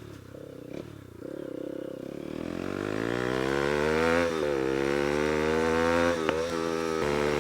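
Bajaj Pulsar NS200 single-cylinder engine through an aftermarket SC Project exhaust, revving. The pitch climbs for a few seconds, drops briefly, climbs again more slowly, and then holds steady. There is a single sharp pop about six seconds in.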